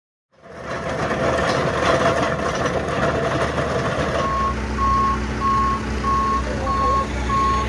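Heavy asphalt-paving machinery running with a low diesel engine rumble and clatter. From about four seconds in, a backup alarm beeps steadily, a little under twice a second, as a machine reverses.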